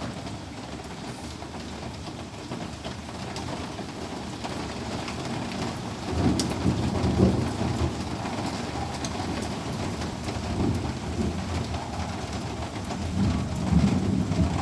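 Steady rain falling, with low rumbles swelling up about six seconds in and again near the end.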